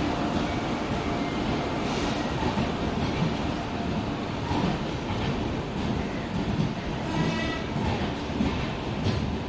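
Passenger train moving along the platform tracks, a steady rumble of wheels and coaches on the rails, with a brief high tone about seven seconds in.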